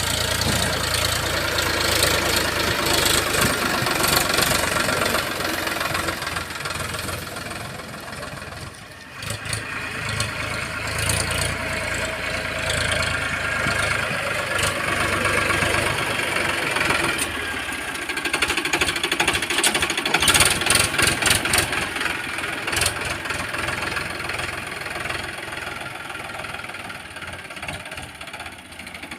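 Diesel engine of heavy earth-moving machinery running and working under load, with a cluster of metallic clanks about two-thirds of the way through.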